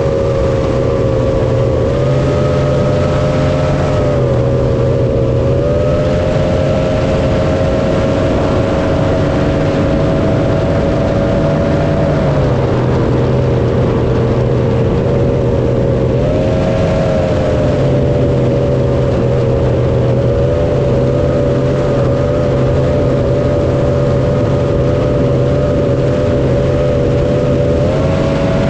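Motorboat engine running under way, its pitch dipping and rising a few times with throttle changes, over a steady rushing noise.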